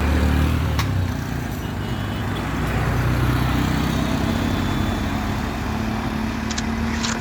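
A vehicle's engine running with a steady low rumble, with a few short clicks near the end.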